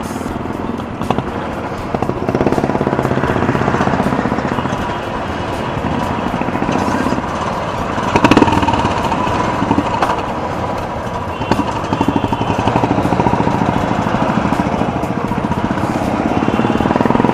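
Motorcycle engine running while riding in traffic, with wind noise on the microphone.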